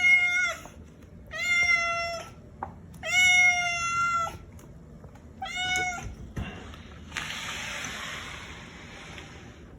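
Domestic cat meowing four times in high, drawn-out calls, the third the longest, which the owner takes as demanding to be let outside. A steady rushing hiss follows for the last few seconds.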